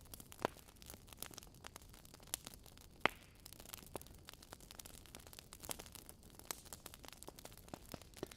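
Wood logs burning in a fireplace, crackling with irregular sharp pops and snaps over a soft hiss, the loudest snap about three seconds in.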